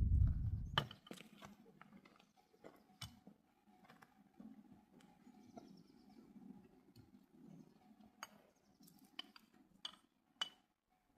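A loud low rumble dies away within the first second. Then come faint scattered clicks and light knocks over a weak steady hum, with a few sharper knocks near the end.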